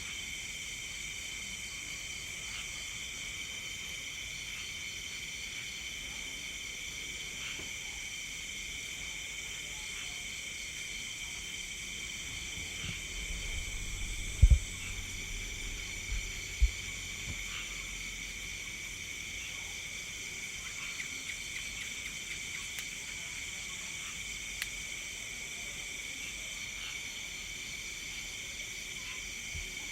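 A steady night chorus of crickets and other insects, several overlapping trilling pitches that hold unchanged. About halfway through come two or three short, dull low thumps.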